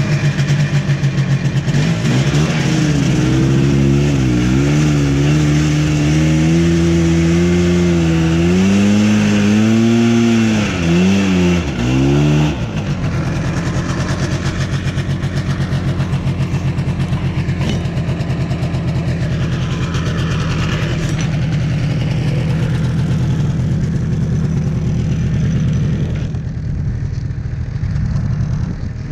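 A 1982 Yamaha Bravo snowmobile's single-cylinder two-stroke engine being warmed up. It is revved up and down for about ten seconds, then settles back to a steady, pulsing idle.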